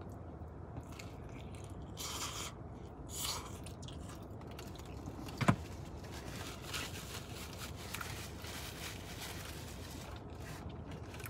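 Close-up chewing and crunching of pepperoni pizza crust, with two short hisses about two and three seconds in. About five and a half seconds in comes one sharp knock, the loudest sound.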